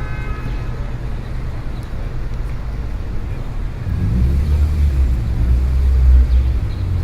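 City street traffic: a steady low rumble of vehicle engines, swelling about four seconds in as a vehicle's engine comes close, then easing near the end. A brief voice is heard at the very start.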